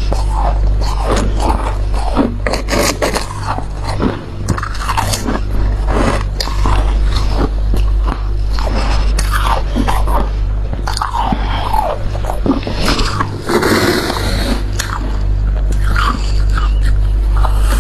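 Close-up biting and chewing of freezer frost, many crisp irregular crunches in a row, over a steady low hum.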